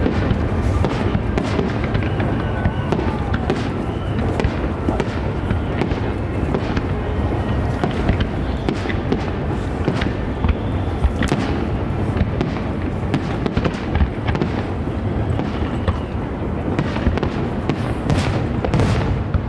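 Aerial fireworks exploding one after another, deep booms mixed with sharp bangs and crackling, with the show's music playing under them.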